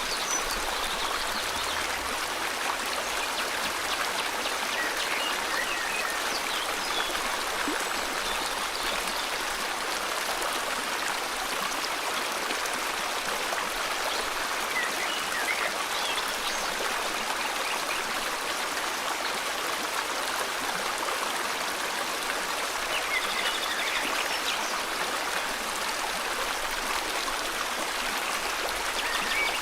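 River water flowing steadily in an even rushing sound, with a few short, faint bird chirps here and there.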